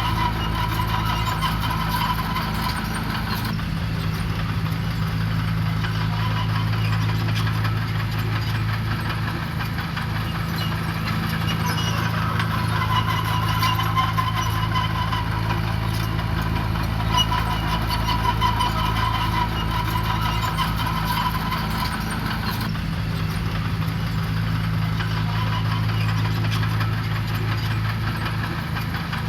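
Heavy construction machine's diesel engine running steadily, a low even hum with no revving. Its tone shifts suddenly a few seconds in and again near the end.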